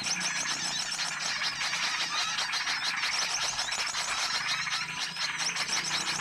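Dense chorus of many small songbirds chirping and twittering over one another without a break, a mixed bird-lure call recording.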